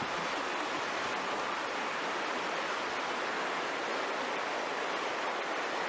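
Rushing floodwater: a steady, even wash of noise with no breaks.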